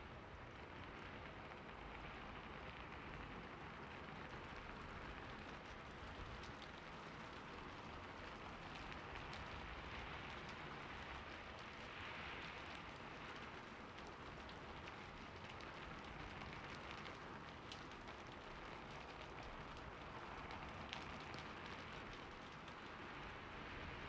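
Steady rain falling on a roof, an even hiss with scattered faint drop ticks.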